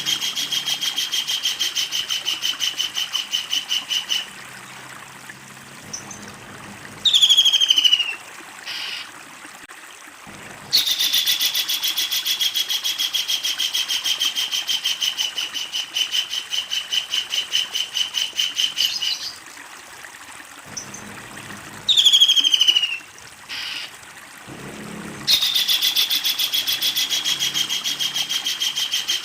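Kingfisher calling: long, rapid, rattling series of repeated high notes that sag slightly in pitch, heard three times. Between them come two short, loud calls that fall steeply in pitch.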